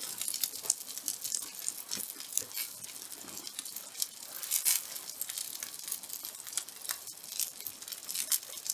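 Irregular crackles and pops over a steady hiss from the wood fire and the hot black-iron plate cooking steak, with fat spitting on the iron.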